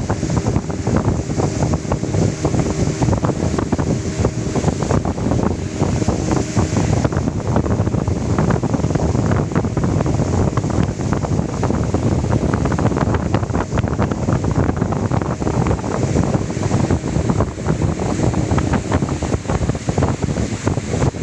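Heavy wind buffeting the microphone, with a faint steady engine hum underneath.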